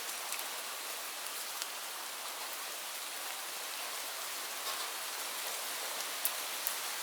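Steady rainfall: an even hiss with scattered sharp drop ticks, a few more of them in the last couple of seconds.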